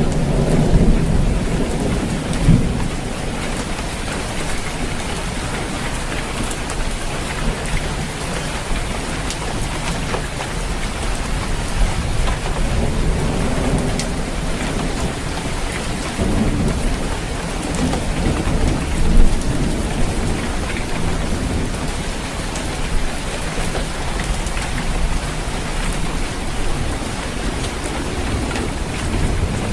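Steady rain falling on a roof, with low rolls of thunder at the start and again about two-thirds of the way through.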